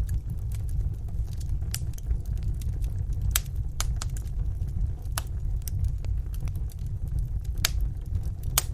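Wood fire burning in a fireplace: a low steady rumble with scattered sharp crackles and pops, the loudest a little over three, five, seven and a half and eight and a half seconds in.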